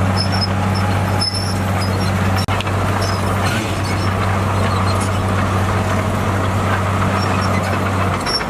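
Heavy-equipment diesel engine running steadily with a constant low drone. The low engine note cuts off abruptly near the end.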